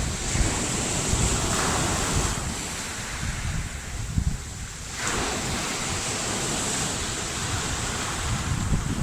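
Surf washing onto the shore of a choppy sea, with wind buffeting the microphone. The wash eases off for a couple of seconds and a new wave surges in about five seconds in.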